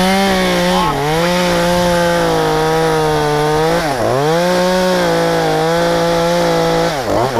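Efco MTT 3600 top-handle two-stroke chainsaw held at high revs through a backhanded cut in maple wood, its pitch sagging briefly twice under load. Near the end it is revved up and down in quick blips.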